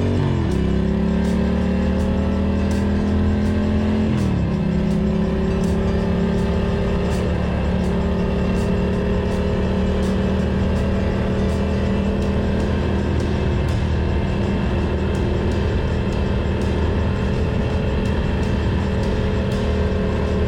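Ducati Monster 620's air-cooled V-twin engine pulling under acceleration, with upshifts right at the start and again about four seconds in, then holding fairly steady revs at cruise. Background music with a steady beat plays underneath.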